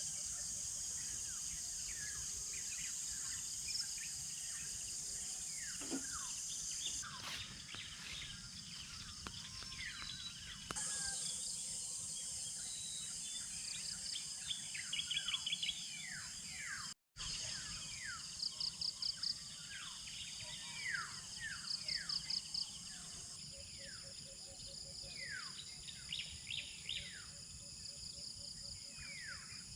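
Rural outdoor ambience: many birds calling with short, downward-sweeping notes and bursts of rapid chirps, over a steady high insect drone. The sound cuts out for an instant just past the middle.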